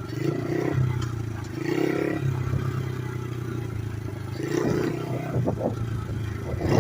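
Small pit-bike engine of a homemade three-wheeler running while ridden over rough ground. Its note swells and eases several times, with clattering knocks from the bumps.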